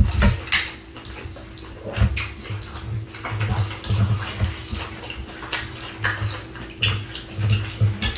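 Close-miked wet chewing and mouth sounds of sauce-soaked birria tacos being eaten, with small smacks and clicks at irregular intervals over a faint steady hum.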